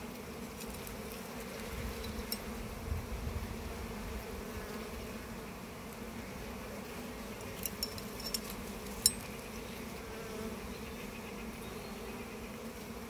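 Honey bees from an opened hive humming steadily, a low drone. A few short, light clicks come near the middle, the sharpest about nine seconds in.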